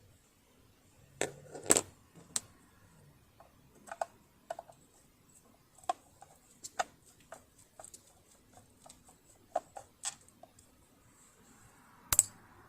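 Irregular light clicks and taps, with a few louder knocks about a second and a half in and near the end: tools and small metal parts being handled on a home sewing machine during disassembly and oiling.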